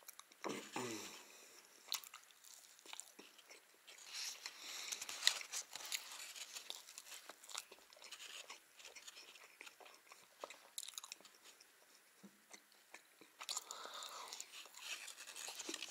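Close-up mouth sounds of chewing and biting a baked egg-and-cheese casserole pie: moist smacking with small crunches of the crust, in scattered short clicks.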